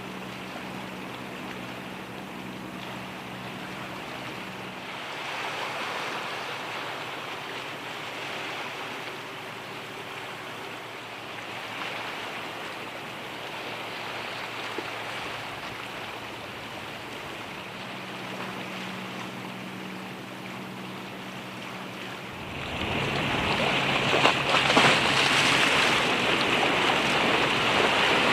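A boat engine's low hum over water and wind noise at the harbour, fading and returning. About 23 seconds in, a louder rushing noise sets in and takes over.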